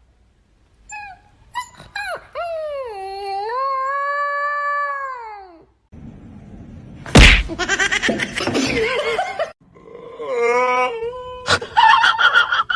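A dog howling in long drawn-out calls that rise and fall in pitch, then a loud sharp thump about seven seconds in followed by a jumble of noise, another shorter howl, and a second knock near the end.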